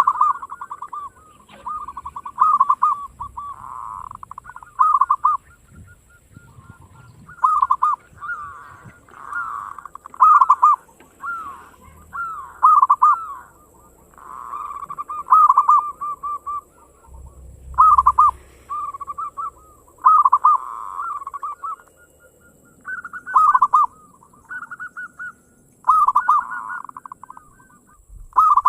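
Zebra dove (perkutut lokal) singing persistently: phrase after phrase of quick, bubbling coo notes, a new phrase every two to three seconds.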